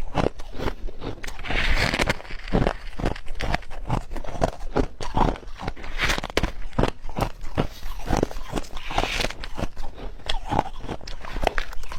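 Ice being bitten and chewed close to the microphone: a dense, continuous run of sharp cracks and crunches.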